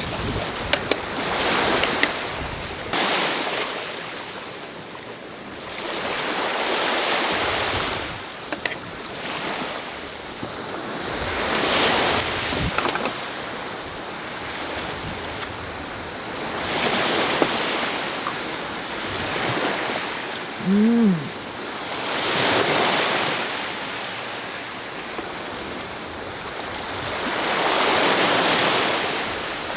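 Sea waves breaking and washing up the shore, swelling and fading about every five seconds, with wind. A short pitched sound rises then falls about two-thirds of the way through, briefly louder than the surf.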